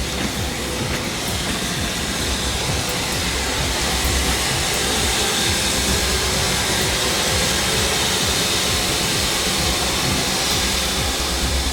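Heritage railway train running along the track: a steady, loud rumble and rushing noise that swells slightly a few seconds in, with faint clicks.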